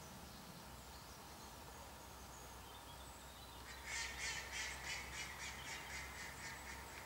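A bird giving a harsh chattering call: a quick run of about a dozen short notes, about four a second, starting a few seconds in and lasting about three seconds.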